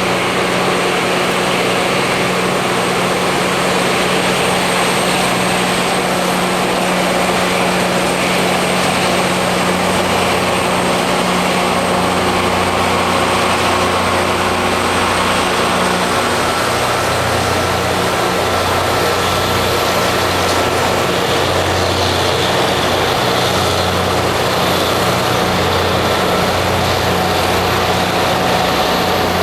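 Rail grinding machine at work: a loud, steady grinding hiss of the stones on the railhead over the drone of its diesel engines, whose low tone shifts about halfway through.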